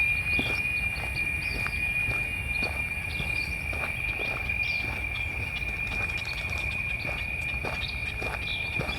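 Cicadas droning steadily on one high, unbroken pitch. Short bird chirps and soft footsteps on the trail are scattered over the drone.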